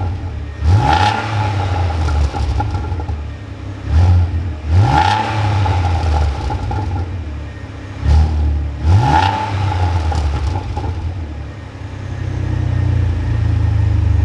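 Renault Clio V6's 3.0-litre V6 revving through a freshly fitted Quicksilver exhaust: three quick blips of the throttle about four seconds apart, each rising in pitch and dropping back to a loud idle, then a longer build in revs near the end.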